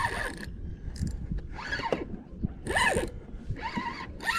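Penn Slammer 3500 spinning reel's drag giving line to a big bull redfish, in four short zipping spurts about a second apart, some rising and falling in pitch as the fish surges.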